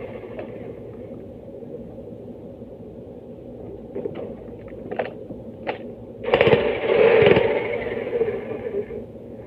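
Jackhammer breaking stone: a few single knocks, then a loud burst of hammering about six seconds in that lasts roughly two and a half seconds, over a steady mechanical hum.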